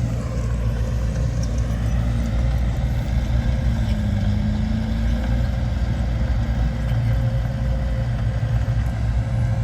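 Heavy diesel engine of earthmoving machinery running steadily, a deep low drone with a slight rise in pitch midway.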